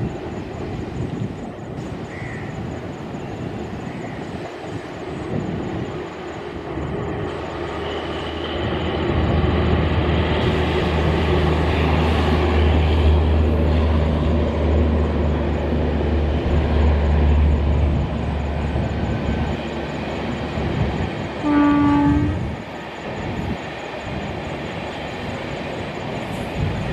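Passenger train running along the line, its low rumble growing to its loudest in the middle as the locomotive passes, with coaches rolling and clattering on the rails. Near the end the train sounds one short horn blast of about a second.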